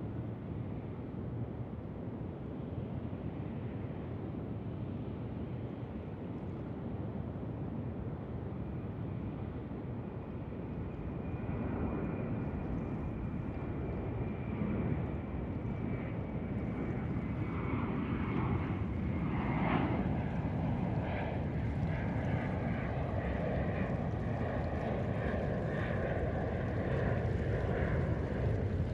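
Airbus A380 jet engines growing louder as the airliner comes in to land, with a high engine whine appearing about halfway through over the steady noise.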